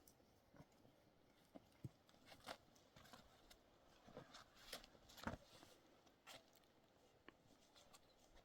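Near silence with faint, scattered clicks and soft knocks.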